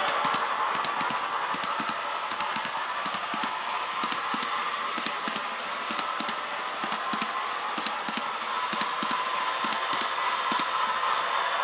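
HO-scale EF210 model electric locomotive with an ESU LokSound sound decoder running, playing a steady hiss and a faint whine through its small speaker, with a stream of small clicks. The whine grows a little stronger near the end.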